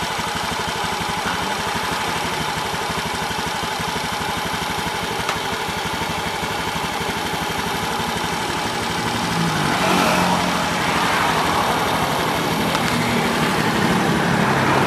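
Honda Beat scooter's single-cylinder engine idling steadily. Background music comes in about two-thirds of the way through.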